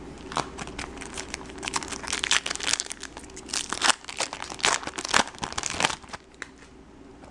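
Foil wrapper of a 2012 Bowman Chrome baseball card pack crinkling and tearing as the pack is opened, a run of sharp irregular rustles that dies down about six seconds in.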